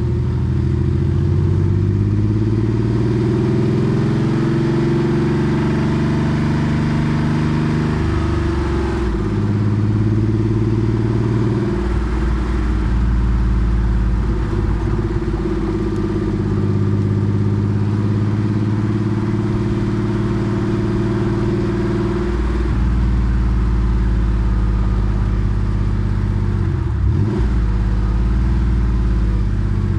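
Air-cooled 3.6-litre flat-six of a Porsche 964 Carrera 2, breathing through a center straight muffler, running under way. The engine note holds steady for stretches, with its pitch shifting several times, about nine, twelve and twenty-two seconds in, and a brief dip near the end.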